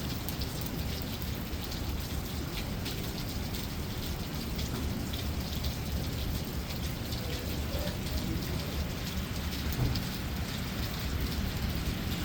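Heavy rain pouring steadily during a thunderstorm, many drops pattering on surfaces over a low, continuous rumble.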